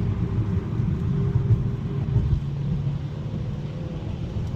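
Road and drivetrain noise inside a moving 2021 Mazda 3 Turbo AWD: a steady low rumble of tyres and engine at cruising speed, easing slightly near the end.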